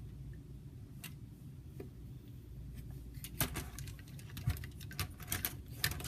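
Hard plastic Lego parts clicking and rattling as the model is handled: a few scattered clicks, then a quicker run of them from about halfway through.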